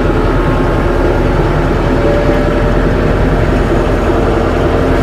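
Tractor engine running steadily close by, with a slight change in its pitch about two seconds in.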